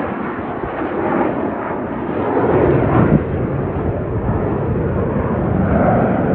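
Jet noise from the Frecce Tricolore's Aermacchi MB-339 jets passing overhead, a broad noisy rush that swells to its loudest about three seconds in.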